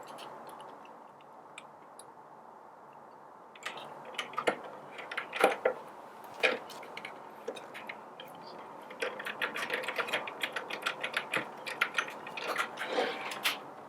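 Small metal screws and washers being handled and started by hand into a grinder's metal casting: scattered sharp metal clicks a few seconds in, then a quick run of small ticks and clinks near the end.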